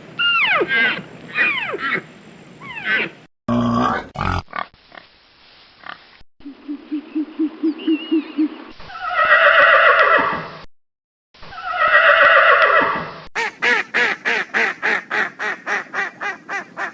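A run of different animal calls, one short clip after another with abrupt cuts: quick falling calls at first, then a low pulsing sound, two long loud calls, and finally a rapid string of pulsed calls at about four a second.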